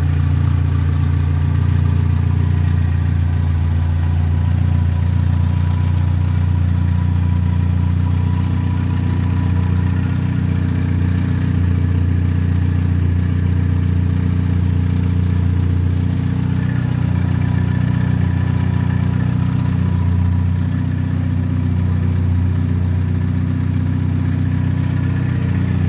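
1960 Sunbeam Rapier MkIII's four-cylinder engine running steadily at idle, with a bit of an exhaust blow: a leak in the exhaust that spoils the sound, though the engine sounds fit enough.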